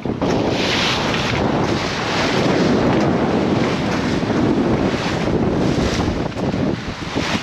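Wind buffeting the microphone on a sailing yacht under sail with no engine running, a steady rough rush that jumps up right at the start. Sea noise from water along the hull lies beneath it.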